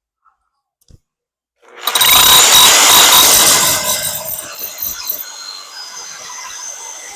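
A power tool starting up about two seconds in, loudest for the next two seconds with a whine over the noise of the work, then running on more quietly.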